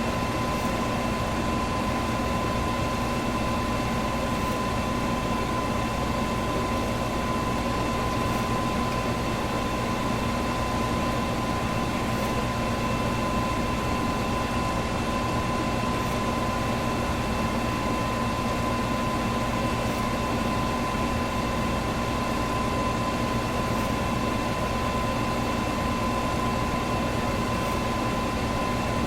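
Electric fan running steadily: an even rush of air with a steady motor hum and whine, and a faint tick about every four seconds.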